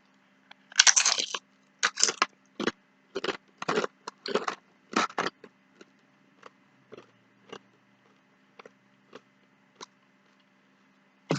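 A mouthful of nachos being chewed close to the microphone: a quick run of loud crunches for the first five seconds or so, then softer, sparser chewing clicks as the chips break down.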